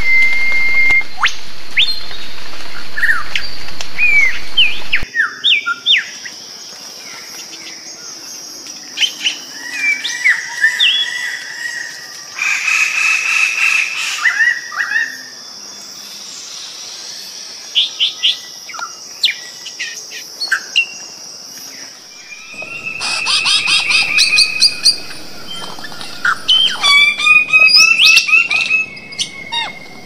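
Forest birds calling: chirps, short whistles and notes that slide up and down. A steady high-pitched drone lies underneath through the middle part. The background changes abruptly twice, and near the end comes a loud run of rapid, quickly repeated calls.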